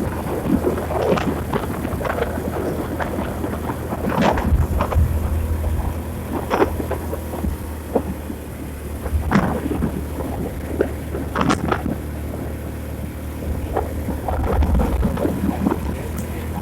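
Wind buffeting the microphone over the low, steady rumble of a vehicle travelling along a road, with irregular sharp knocks and gusts throughout.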